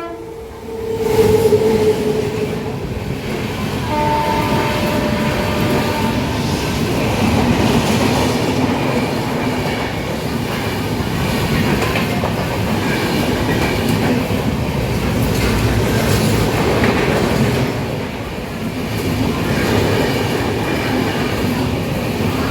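Indian Railways train running through a station, a steady loud rumble and clatter of wheels on the rails. A short steady tone sounds about four seconds in.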